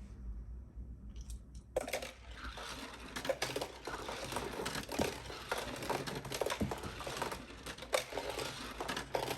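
Die-cast Hot Wheels cars rolling and clattering down a plastic playset ramp: a run of quick, irregular clicks and rattles that starts about two seconds in.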